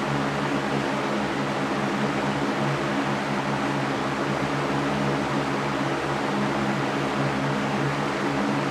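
Electric fan running steadily: an even whooshing rush of air with a low motor hum underneath.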